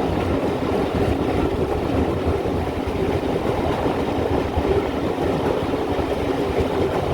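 Steam-hauled train running along the line behind GWR 2-8-0 tank engine 4247, a steady rumble of wheels on track.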